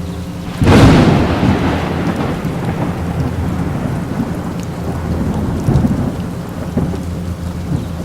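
Thunderstorm: a sharp thunderclap breaks about a second in and rolls away into rumbling over several seconds, over steady falling rain. A smaller rumble swells again near the end.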